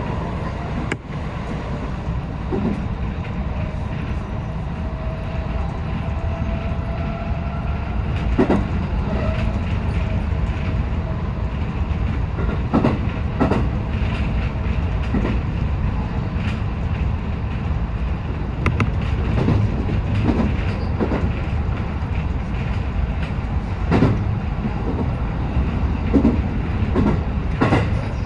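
JR West 223 series electric train running on the rails with a steady low rumble, broken by irregular sharp wheel clacks over rail joints.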